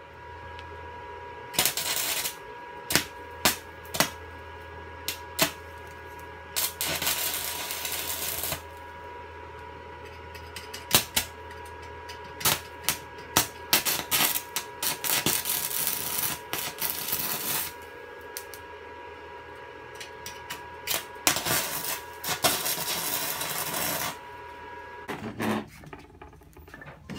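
Stick welding on a cast-iron sewing-machine treadle frame: several runs of arc crackle, each lasting a couple of seconds, with sharp clicks between them, over a steady hum.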